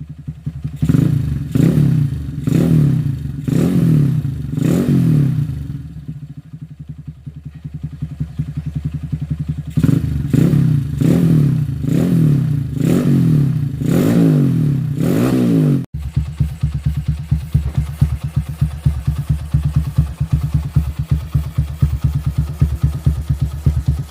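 Motorcycle engine through an aftermarket JMF racing exhaust, blipped in quick revs about once a second, dropping back to idle, then blipped again in a second run of revs. After an abrupt cut it idles with a steady, rapid exhaust beat.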